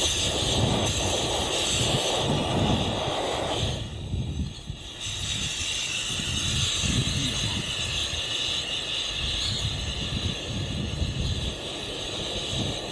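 SOTO MUKA gasoline camp stove burner running with a steady, loud hiss over an uneven low rumble, briefly quieter about four seconds in.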